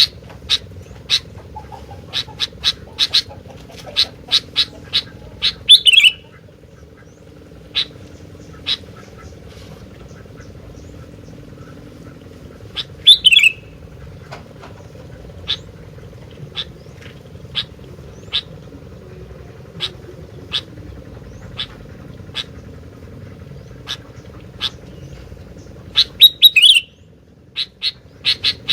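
Sooty-headed bulbul (kutilang) calling without pause: short sharp chirps every second or so, sometimes in quick runs, broken three times by a louder call that sweeps downward. A steady low hum lies underneath.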